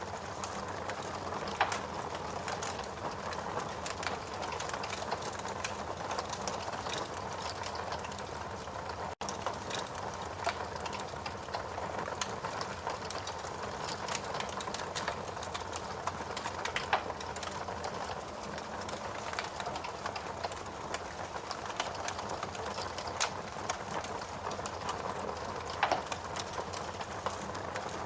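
Wood fire burning in a fireplace: a steady hiss of flames with constant small crackles and now and then a louder pop.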